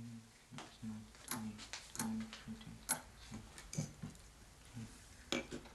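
A series of irregular clicks and light knocks, unevenly spaced, some with a dull thud beneath them.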